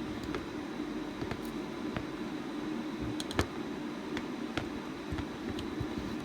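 Steady low hum of a screen-laminating autoclave (OCA bubble remover), with scattered light clicks and one sharper click about three and a half seconds in.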